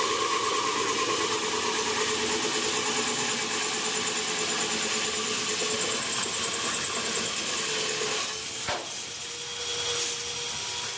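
Electric diamond core-drilling machine running steadily under load as it bores a 300 mm hole, a motor whine over grinding noise. A single sharp knock about three-quarters through.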